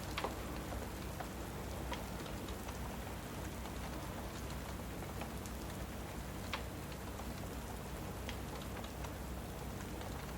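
Steady rain, with a few sharp crackles and pops from a fireplace scattered through it.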